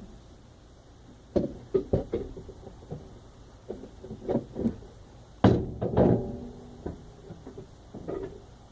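A series of knocks and clunks from hands working on the carburetor of a 1964 Chrysler New Yorker, engine off, while it is primed with gas. The loudest clunk comes about halfway through and rings briefly.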